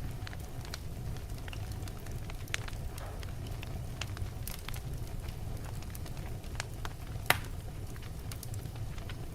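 Fire burning in a fireplace: a steady low rumble of flames with scattered crackles, and one loud pop a little after seven seconds in.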